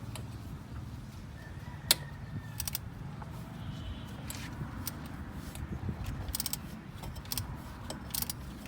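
Metal tools and parts clinking and clicking over a steady low rumble, with one sharp click about two seconds in.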